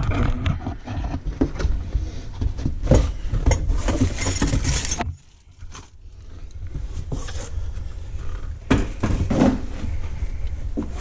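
Handling noises as metal parts of a garbage disposal mounting assembly are worked into place under a sink: irregular clinks, knocks and scrapes over a low rumble. The noise cuts out suddenly about five seconds in, picks up again, and there is a louder knock near nine seconds.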